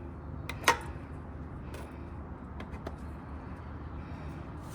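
A few light clicks and knocks of hand work on the carburetors and intake boots, the sharpest about two-thirds of a second in, over a steady low hum.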